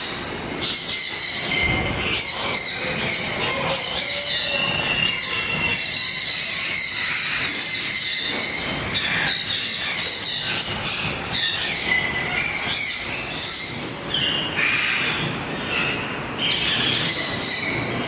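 Many birds calling at once: a dense chorus of overlapping, shrill, high-pitched screeches, each held for a second or so.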